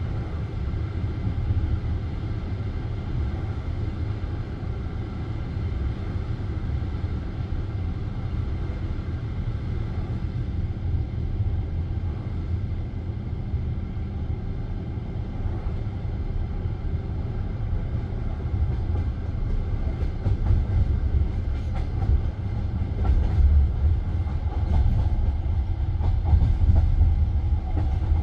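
Passenger train wheels running on the rails, heard from inside the coach: a steady low rumble. In the last third it grows louder, with sharper wheel clacks.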